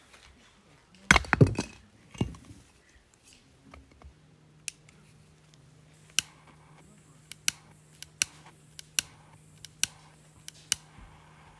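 Hard objects handled: a loud clatter of knocks about a second in, another shortly after, then a run of sharp single clicks and taps every half second to a second, with a faint steady hum underneath from about a third of the way in.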